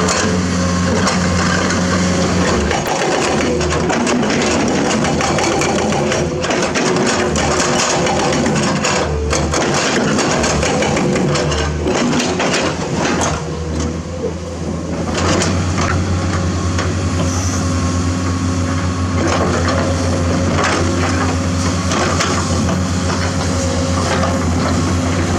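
Komatsu hydraulic excavator's diesel engine running under working load, with many scattered clanks and knocks from the machine working rock. The engine eases off briefly about halfway, then holds a steady, stronger note.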